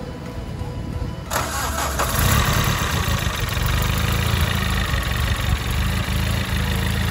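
Turbocharged, fully built 20-valve Toyota four-cylinder engine starting. It catches about a second in and settles into a steady idle through a free-flowing 3-inch exhaust with a resonator and silencer.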